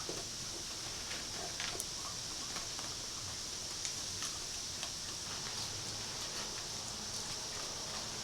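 Raccoons and a skunk eating dry cat food: faint, scattered clicks and crunches over a steady high hiss.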